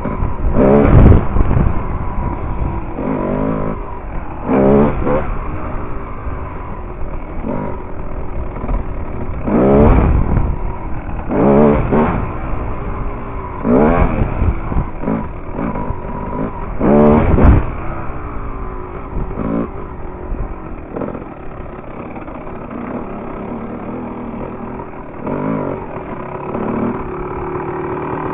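Dirt bike engine revving hard about ten times, each burst rising and falling in pitch, and dropping back to a lower running note between bursts.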